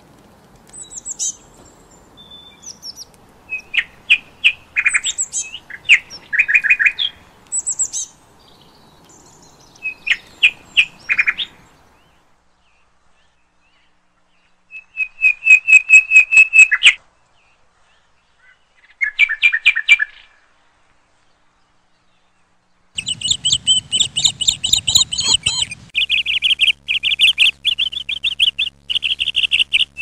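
Birds chirping and calling in separate bursts: scattered high chirps and short trills through the first eleven seconds or so, a silent gap, a fast trill on one note about fifteen seconds in and another about nineteen seconds in, then rapid, unbroken chattering from about twenty-three seconds in.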